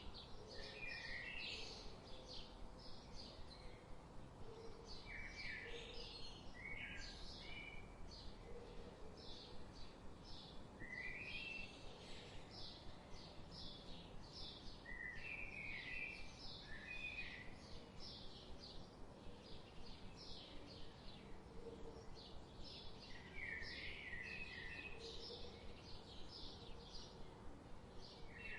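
Birdsong ambience: several birds chirping and trilling in quick, overlapping phrases throughout, over a steady low background hiss.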